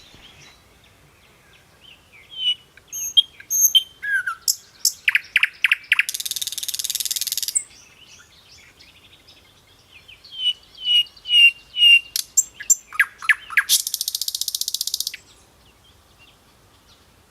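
Small birds calling: short whistled chirps and quick runs of sharp notes, broken twice by a buzzy rattling trill of about a second and a half, one about six seconds in and one near the end.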